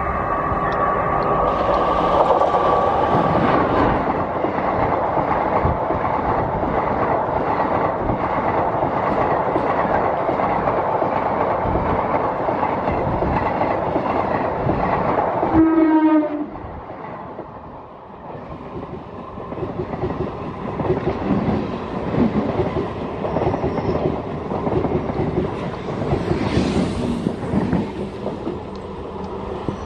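An express train hauled by an Indian Railways electric locomotive passes at speed: the locomotive's horn sounds for the first few seconds, then the coaches rush by with wheels clattering over rail joints. About halfway the sound drops abruptly to a second train rolling past, quieter and more uneven.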